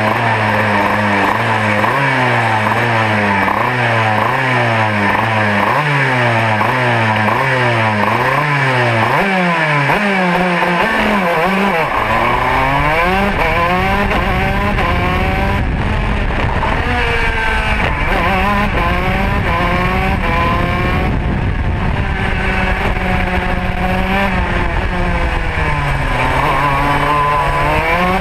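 Two-stroke Modena kart engine heard onboard on track. For the first several seconds the revs rise and drop quickly over and over. From about halfway the revs climb slowly under a steady low rumble of wind on the microphone, dip briefly near the end and pick up again.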